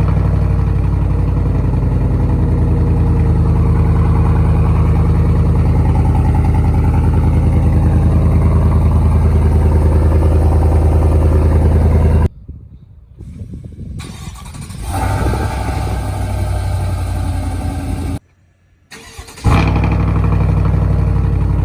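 Exhaust of a 2021 Chevy Silverado with the muffler deleted, idling after a cold start with a loud, deep, steady drone. About twelve seconds in it drops off abruptly and comes back quieter and rougher. It cuts out briefly near the end, then returns at full loudness.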